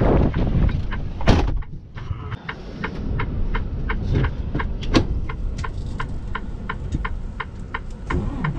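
Steady low rumble of a truck on the road with wind, a loud knock about a second in, then a steady rapid ticking, about three ticks a second.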